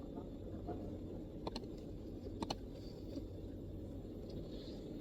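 MacBook keyboard keystrokes, sparse: a quick pair of key clicks about a second and a half in and another pair about a second later, over a steady low room rumble.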